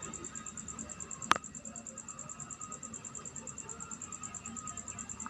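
An insect chirping in a steady, rapid, high-pitched pulse, with one sharp click just over a second in.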